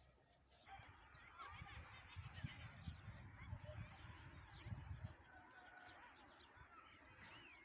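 Faint chorus of birds chirping, with many short overlapping calls. A low rumble runs under them for the first few seconds.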